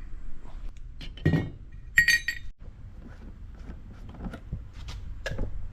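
Metal objects clinking and knocking, with a thump a little over a second in and one bright, ringing clink about two seconds in, followed by lighter taps.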